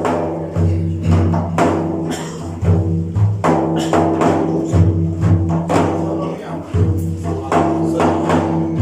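An ensemble of frame drums (daf) beaten in a steady rhythm: deep booming strokes mixed with sharper slaps. This is the drum interlude of an Iraqi mawlid between sung verses.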